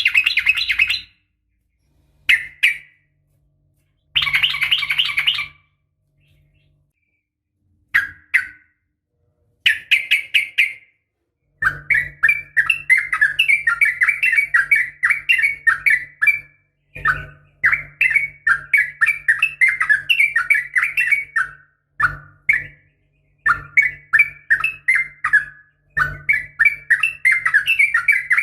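Yellow-vented bulbul (trucukan) singing. A few short bursts of song come first, then long runs of rapid chattering notes with brief pauses between them.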